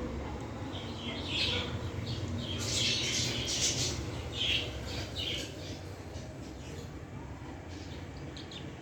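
Small parrots, budgerigars and lovebirds, squawking and chirping in short bursts, busiest in the first half and thinning out near the end, over a steady low rumble.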